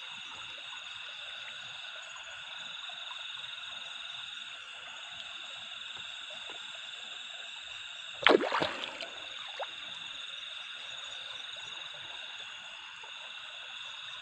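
A steady chorus of frogs calling beside a stream, holding an even level. About eight seconds in there is one loud, sudden noise.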